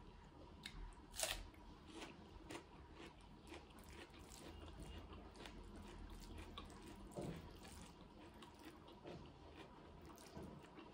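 Close-up eating sounds: chewing and crunching, with a crisp bite into a raw red onion about a second in. Small clicks come from fingers mixing rice and dal on a metal plate.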